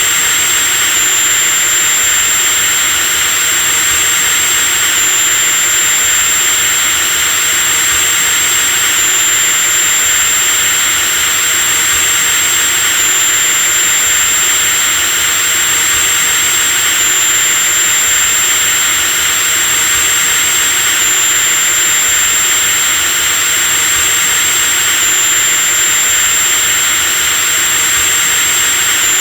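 Electric drill running continuously at full speed: a steady high-pitched motor whine over a dense hiss, with a slight hitch in the whine about every four seconds.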